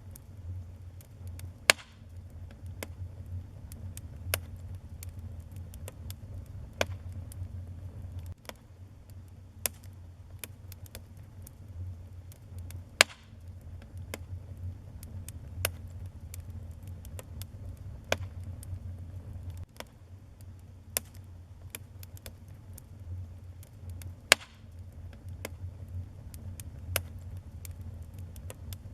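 Wood fire burning in a fireplace: a low steady rumble with irregular sharp crackles and pops, several of them loud.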